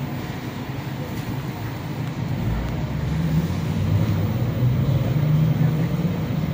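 Electric commuter train pulling away from the platform, heard from on board: a low running rumble that swells about halfway through as it gathers speed, with a faint whine creeping up in pitch.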